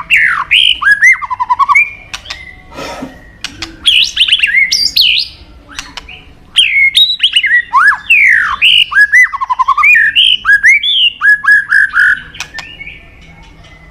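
White-rumped shama (murai batu) singing loud, varied whistled phrases of swooping rising and falling notes. The song comes in bursts separated by short pauses and stops shortly before the end.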